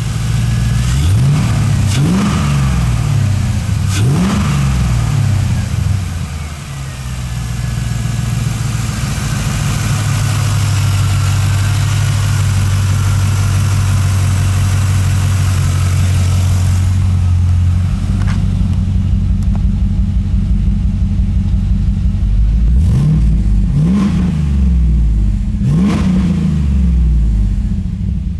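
1999 Pontiac Trans Am's 5.7-litre LS1 V8 running and being revved in quick blips several times near the start and again near the end, with a steady held engine speed for several seconds in between.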